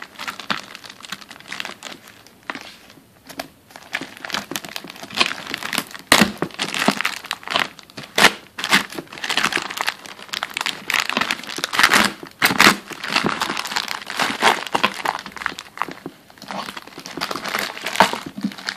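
Plastic mailer bag being torn open and crinkled by hand, with irregular rustling and a few sharp crackling bursts.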